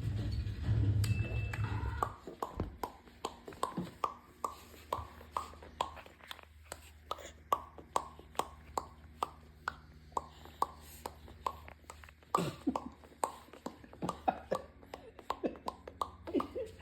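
A person making popping noises with the mouth: a long, even run of short hollow pops, about two or three a second, starting about two seconds in. Near the end the pops come less evenly, some sliding down in pitch.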